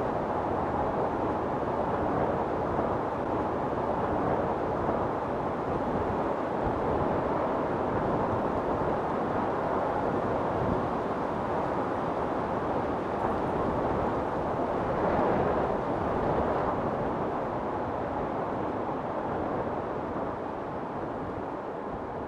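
Wind storm blowing steadily in gusts, with a stronger swell about two-thirds of the way through, then gradually fading near the end.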